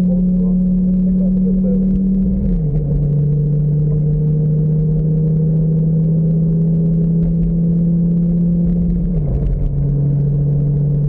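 Lamborghini engine heard from the open cockpit, running at a steady note that steps down in pitch twice, about two and a half seconds in and again near the end, as the revs fall at each upshift.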